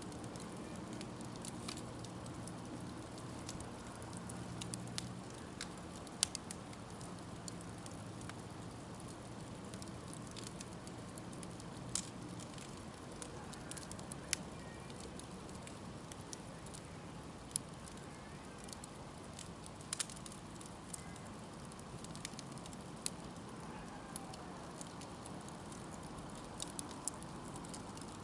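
Wood bonfire burning, with irregular sharp crackles and pops from the burning wood over a steady low hiss of the flames.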